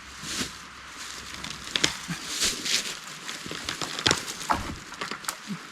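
Dead cypress tree being pushed and shaken to knock it over: irregular cracks and snaps of dry wood, with rustling underfoot.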